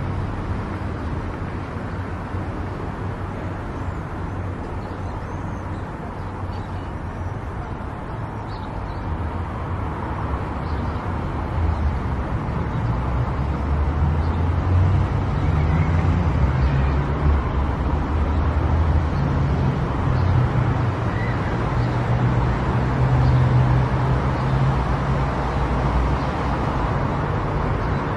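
A car driving along a road: steady engine and tyre rumble, with the low rumble growing louder about halfway through.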